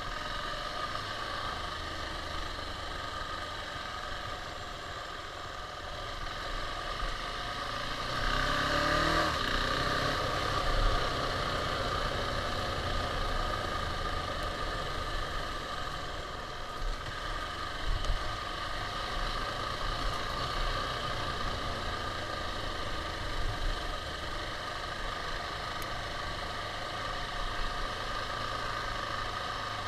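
KTM 690 single-cylinder motorcycle engine running under way, revving up with a rising pitch about eight seconds in, then running on steadily.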